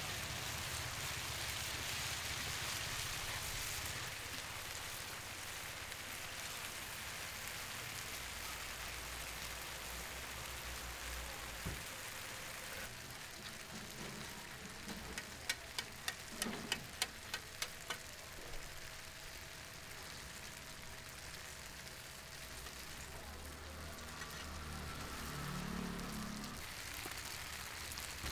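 Food frying in hot oil at a stall, a steady sizzling hiss. Partway through there is a quick run of about ten sharp clicks or taps.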